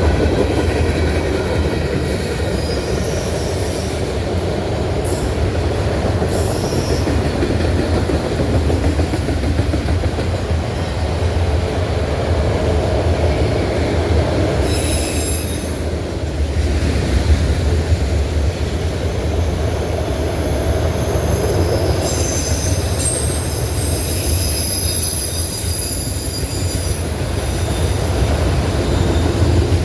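Freight train cars rolling past with a steady low rumble, the wheels squealing high against the rails briefly about halfway through and again for several seconds near the end.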